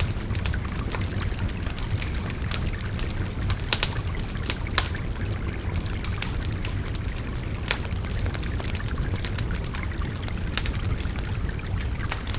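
Bonfire crackling with frequent sharp pops of burning wood, over the steady babble of a river. The loudest pops come a little before halfway and again past the middle.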